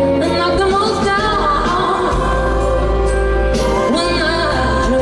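Live pop band music with a female singer's voice gliding through sustained, bending sung notes over a steady low bass.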